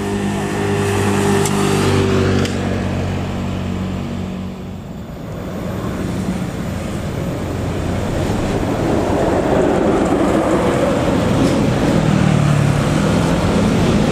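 Road traffic: a vehicle engine running at the start and fading about four seconds in, then another vehicle growing louder as it approaches.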